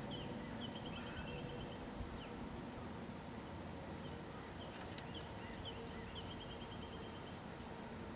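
Faint outdoor ambience of distant birds: scattered short high chirps and two quick runs of rapid chirps, about five seconds apart, over a faint steady hum.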